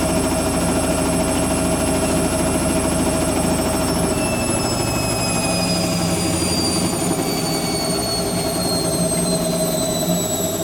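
Hoover Quattro AE130 washing machine running with a steady hum and a high motor whine. From about four seconds in, the whine slowly falls in pitch and the low rumble drops away as the motor winds down.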